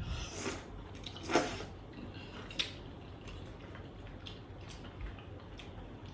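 Close-miked eating of seafood soup: two short slurps of broth in the first second and a half, then a sharp click and scattered light ticks of dishes and food.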